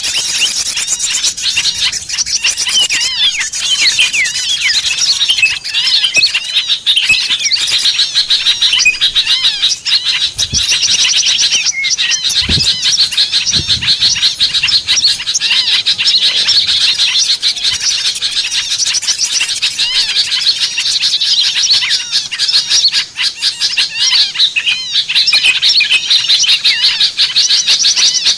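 Dense, noisy chorus of many small songbirds chirping and trilling all at once without a break: a bird-luring recording of agitated small birds, meant to draw wild birds down. A few brief low thuds sound near the middle.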